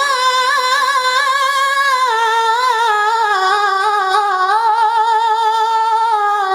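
A high voice reciting the Quran in a melodic tajweed style. It holds one long, drawn-out vowel with wavering ornamental trills, steps down in pitch about two seconds in, and falls away at the end.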